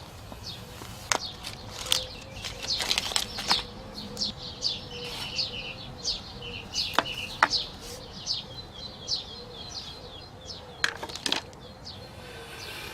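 Small birds chirping over and over in short falling notes, with a few sharp clicks scattered through.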